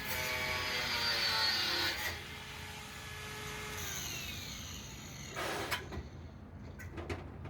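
A power tool's motor running, loudest in the first two seconds, then winding down with a falling pitch about four seconds in. A short loud rasp follows, then a few clicks.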